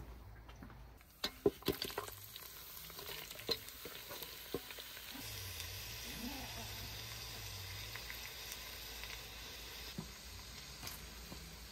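Food frying and sizzling in a pot over a fire. A handful of sharp knocks, like a utensil stirring against the pot, come in the first few seconds, then a steady sizzle carries on.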